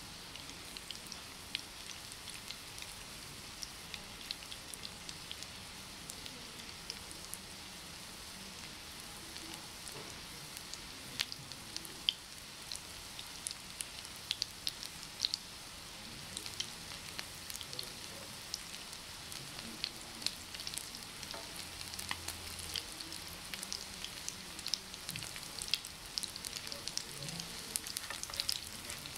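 Breaded potato patties shallow-frying in oil in a non-stick pan: a steady sizzling hiss with many small pops and crackles, more frequent in the second half.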